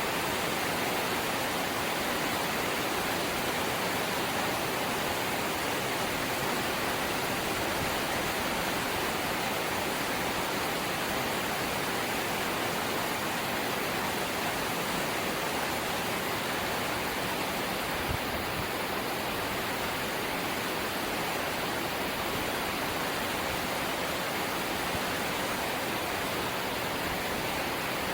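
Steady rain falling on a corrugated zinc roof: an even, unbroken hiss with no let-up, and a single soft tap about two-thirds of the way through.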